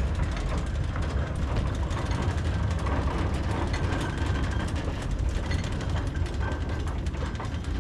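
Steel-wheeled tool cart rolling along 2 ft gauge rail without the locomotive, with a steady low rumble and many small clicks and rattles.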